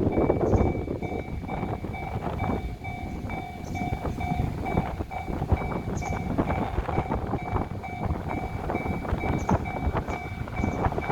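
115-series electric train passing over a level crossing, its wheels clicking over the rail joints, while the crossing's warning bell keeps ringing at about two strikes a second.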